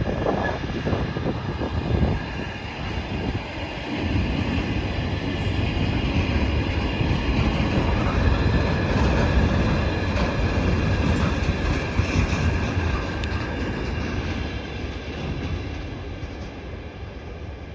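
Heavily loaded Direct Rail Services freight train rolling past, its wagons rumbling and clattering over the rails. The sound fades over the last few seconds.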